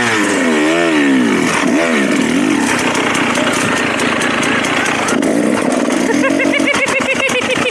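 Dirt bike engine revving up and down in bursts of throttle as the bike is ridden over a log, settling to a steadier run in the middle and rising and falling again near the end.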